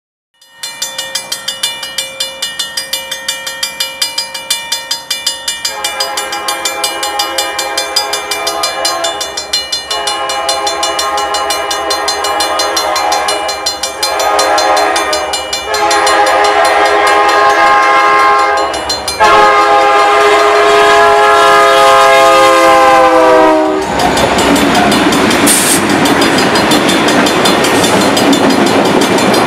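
Grade crossing bell ringing rapidly as a freight train approaches. A Union Pacific locomotive's multi-chime air horn sounds the crossing signal: long, long, short, long, the last blast dropping slightly in pitch as it passes. From about 24 s the locomotives and cars rumble loudly across the crossing.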